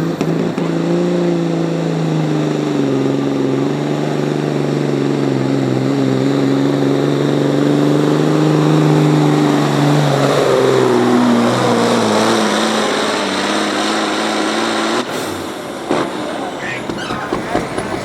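Pulling vehicle's engine running hard under load as it drags the weighted sled, its pitch holding steady then falling as it bogs down. The engine sound cuts off abruptly about fifteen seconds in, leaving a lower rumble with a few knocks.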